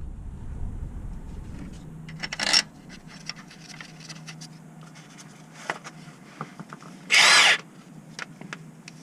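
Cordless power tool run in two short bursts, the second the louder with a motor whine. Between them come small metallic clicks and clinks of tools and parts.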